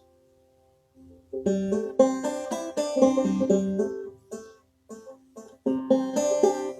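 Clawhammer banjo being played. After a second of quiet, a run of plucked notes starts about a second and a half in, thins to a few single notes past the middle, then picks up again near the end.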